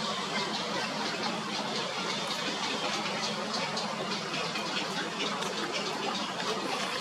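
Steady rushing outdoor noise, like running water.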